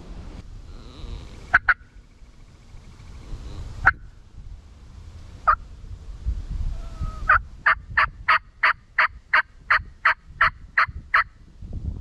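Hen turkey yelps from a hunter's turkey call: a few single loud notes, then a run of about a dozen evenly spaced yelps, roughly three a second, in the second half.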